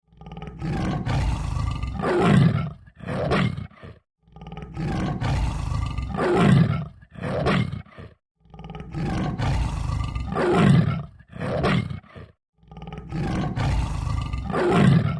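A large wild cat's roaring call, the same call four times, one about every four seconds. Each swells to a loud peak about two seconds in and ends with a short second burst.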